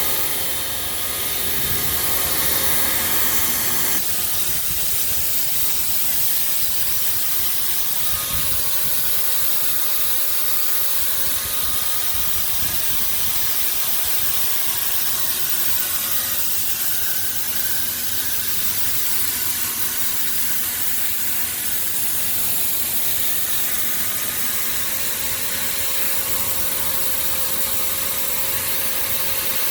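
Pneumatic grain vacuum running steadily: a loud, even rush of air with a steady machine whine beneath, slightly thinner in its lower range from about four seconds in.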